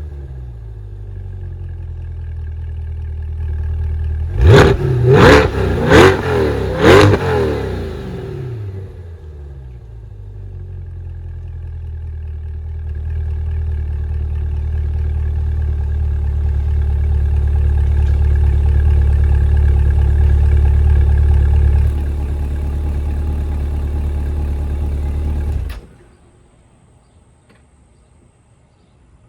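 2020 Corvette C8 Z51's 6.2-litre LT2 V8 through its factory performance exhaust: settling to idle, then revved in four quick blips about four to seven seconds in. It then runs steadily and louder for about ten seconds, drops back a little, and is shut off suddenly near the end.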